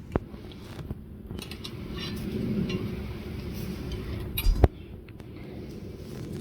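Hard objects being handled: a light click, a stretch of rustling and light clinks, then one sharper knock about four and a half seconds in.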